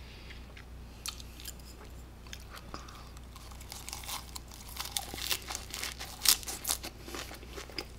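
Crunching bites and chewing of a lettuce wrap filled with grilled pork belly: a few scattered crunches at first, then denser, louder crunching from about halfway.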